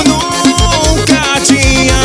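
Instrumental forró band music: a sustained melody over a steady bass-driven beat.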